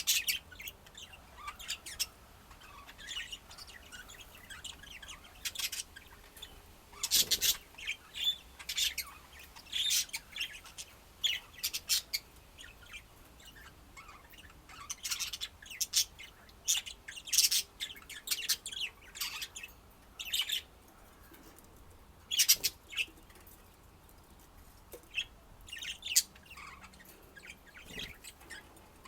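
Pet budgerigars chirping and chattering in short, high calls that come in irregular clusters with brief pauses between them.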